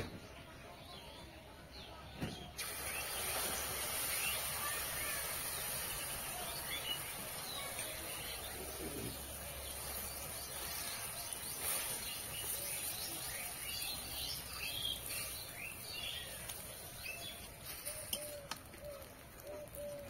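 Egg-and-potato batter starts sizzling in hot oil in a wok about two and a half seconds in, then keeps up a steady sizzle. Birds chirp over it, with a run of short repeated calls near the end.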